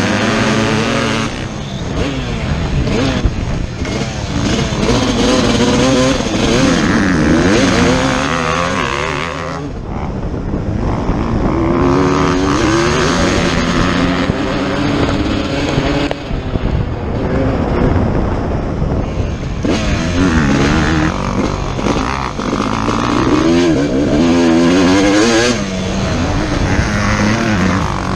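Motocross dirt bike engine revving hard, its pitch climbing and dropping again and again as it accelerates and backs off, with easier stretches about ten seconds in and again a few seconds later.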